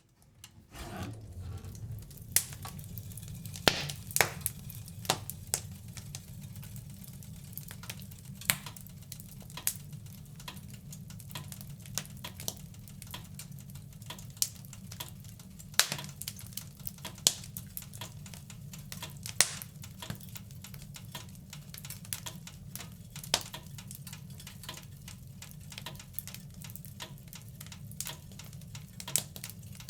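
Wood fire in a fireplace crackling, with irregular sharp pops of burning wood over a steady low rumble of flames. It fades in during the first second.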